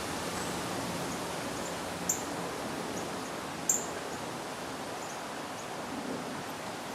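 A few short, sharp, high bird chirps, the two loudest about two seconds and three and a half seconds in, over a steady outdoor hiss.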